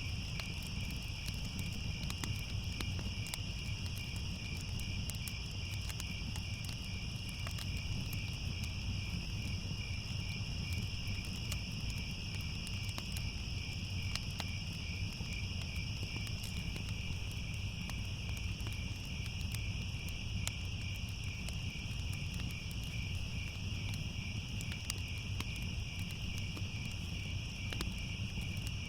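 A steady chorus of crickets chirping in two high, finely pulsing bands, over a low rumble with scattered faint crackles like a fire burning.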